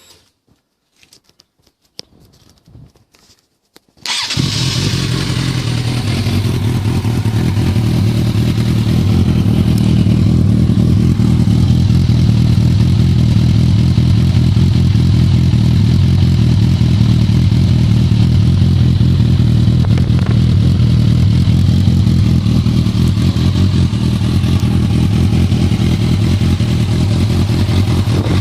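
2008 Suzuki GSX650F inline-four engine, breathing through a Scorpion Red Power aftermarket exhaust with the dB killer removed, starting up about four seconds in and then idling steadily.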